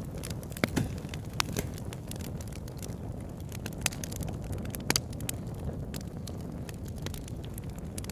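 Wood fire burning in a fireplace: a steady low rumble of flame with irregular sharp crackles and pops, a handful of them louder.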